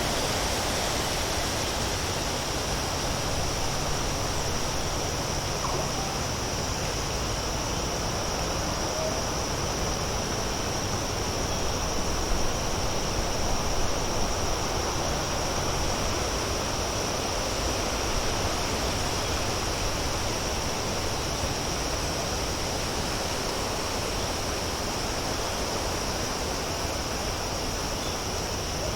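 Outdoor field ambience from a recording of crows picking and eating: a steady hiss with a high, even tone above it, and a few brief small sounds near the middle.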